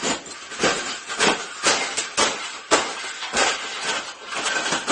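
A rapid, irregular series of sharp clattering bangs, roughly two a second, with no voice among them.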